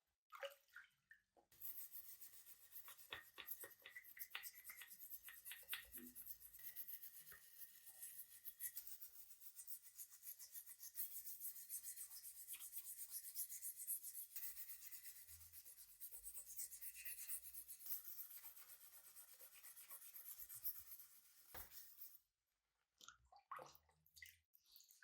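Rapid scratchy scrubbing strokes on a part of an old hand plane, faint and continuous for about twenty seconds. They stop near the end, and a few light clicks follow.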